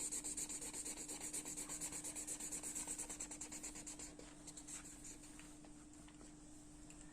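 Drawing tool rubbed quickly back and forth on paper, shading or colouring in with fast even strokes; after about four seconds it eases to a few slower, fainter strokes.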